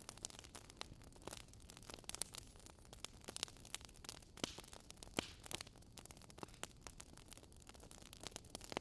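Bonfire crackling: wood popping in quick, irregular sharp snaps over a soft, steady hiss.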